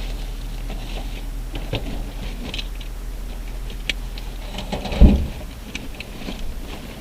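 Scattered light clicks and knocks over a steady low hum, with one heavy thump about five seconds in.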